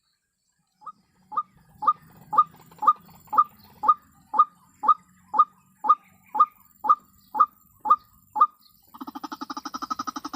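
White-breasted waterhen calling: a steady run of short rising notes, about two a second, then near the end a fast pulsed chattering.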